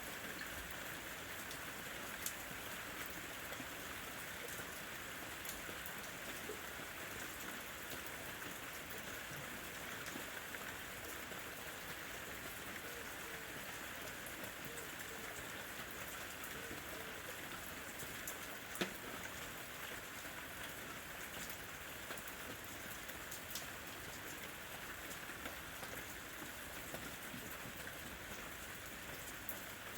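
Steady rain falling on a lemon tree, with many single drops ticking on leaves and fruit. There is a sharper drop hit about two seconds in and a louder one about nineteen seconds in.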